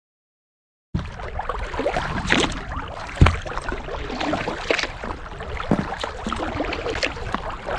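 Kayak being paddled: irregular splashing and dripping from the paddle and water against the hull over a steady low rumble, starting suddenly about a second in, with one sharp knock a couple of seconds later.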